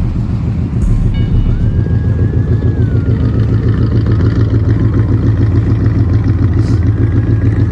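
Oldsmobile 455 V8 running with a deep, pulsing low rumble, its idle chopping.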